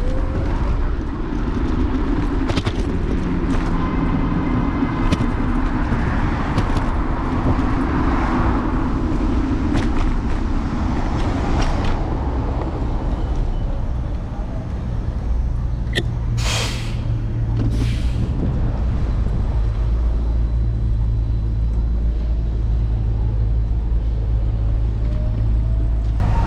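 City street traffic heard from a moving electric scooter: vehicle engines and road rumble. Scattered clicks are heard, and there are two short bursts of hiss about two-thirds of the way through.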